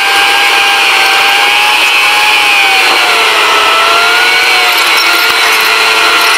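Car engine and drivetrain heard from inside the cabin while driving, a steady buzzing drone whose pitch dips slightly about three seconds in.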